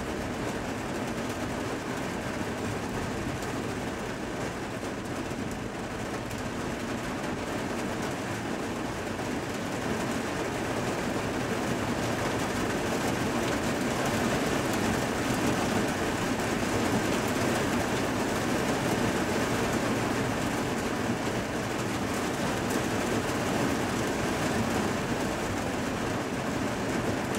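Heavy thunderstorm rain falling steadily, with a continuous low rumble under it that grows a little louder about halfway through.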